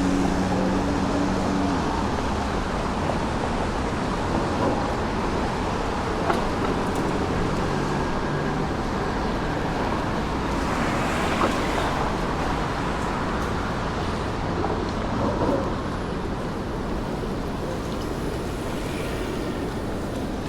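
City street traffic noise: a vehicle engine's low hum at first, dying away about two seconds in, then a steady wash of passing traffic.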